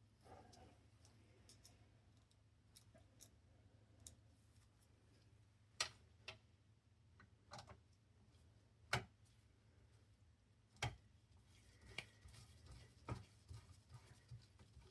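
Faint, scattered clicks and taps of small parts and a hand tool being handled, about a dozen spread irregularly, over a low steady hum.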